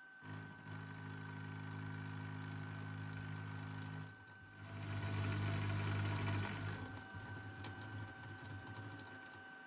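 Milling machine running while milling the corners off a connecting rod blank: a steady whine from the spindle drive over a low hum. The hum drops out briefly about four seconds in and again near the end, and the sound is loudest between about five and seven seconds in, when the cutter is in the work.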